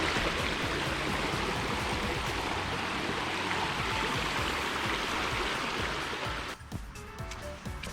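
Running water of a fast little beck, a steady rushing, which cuts off sharply about six and a half seconds in, leaving background music.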